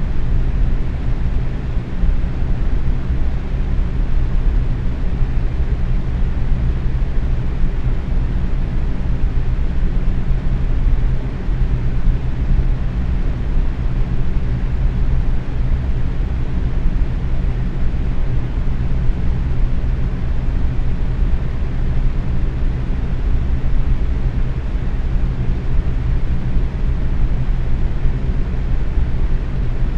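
Box fan running steadily at medium speed, a constant low-pitched whoosh of moving air with a faint motor hum.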